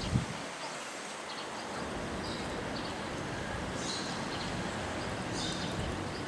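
Steady outdoor background noise with several short, high-pitched bird chirps scattered through it, and a brief thump right at the start.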